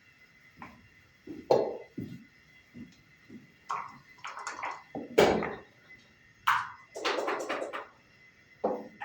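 Backgammon checkers and dice clacking on a wooden board: a series of single sharp clicks and knocks, with a quick rattling flurry about seven seconds in.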